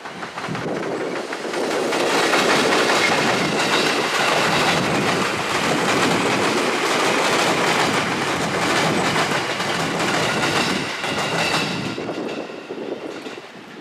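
A delivery train of 205-series electric commuter cars hauled by an EF64 electric locomotive rolling past, its wheels clattering over the rail joints. It swells up over the first couple of seconds, stays loud, then fades away near the end.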